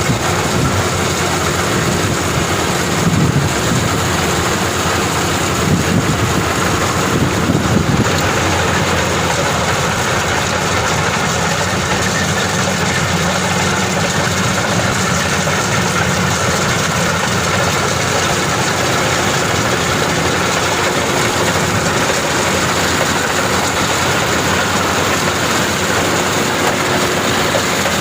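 Maxxi Bimo 102 rice combine harvester running steadily while harvesting, its engine and machinery making a loud, even noise. A few brief louder surges come about three, six and eight seconds in.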